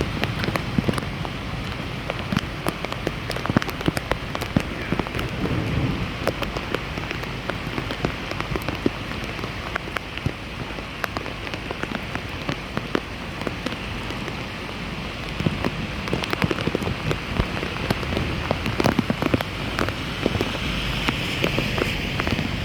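Water on a flooded street: a steady hiss with dense, irregular small splashes and patters, like rain falling on standing water.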